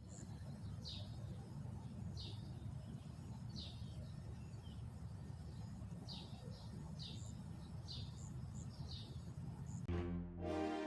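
A bird chirping repeatedly, with short falling chirps about once a second, over a low steady background rumble of outdoor ambience. Music starts near the end.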